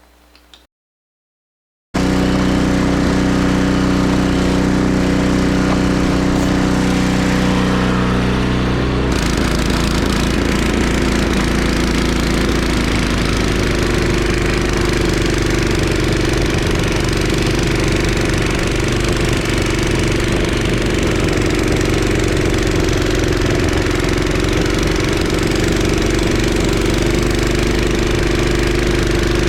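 A 24-year-old Craftsman 5 hp 22-inch snowblower's single-cylinder engine running steadily. About a third of the way in the sound changes and turns noisier, with more hiss, as the machine works. The owner says its auger belt is slipping and not delivering full power to throw heavy wet snow.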